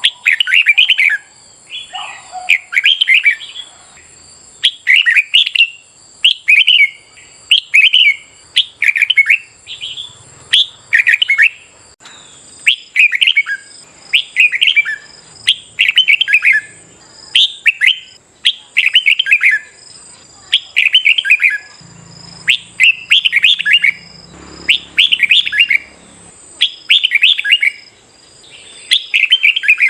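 Red-whiskered bulbul singing loud, short warbling phrases over and over, about one a second.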